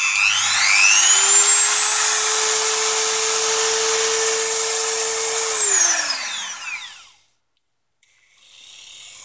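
Dremel 3000 rotary tool's motor spinning up to a steady high whine, running for about four seconds, then winding down and stopping. About a second later a fainter whir starts building up again.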